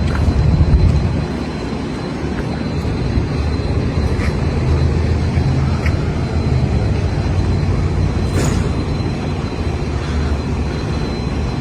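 Pickup truck engine and exhaust running with a deep, steady rumble, a little louder in the first second.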